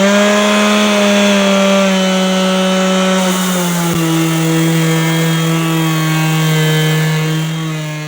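Electric sander starting up and running steadily on a hardwood cutting board with fine-grit paper, knocking down grain raised by wetting. Its pitch drops slightly a few seconds in, and it winds down near the end.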